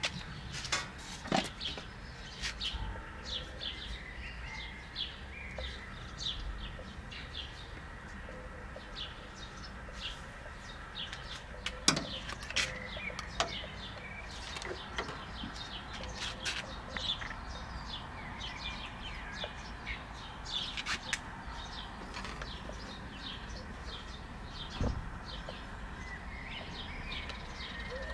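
Small birds chirping in short, repeated calls over a low steady background, with a single sharp click about twelve seconds in.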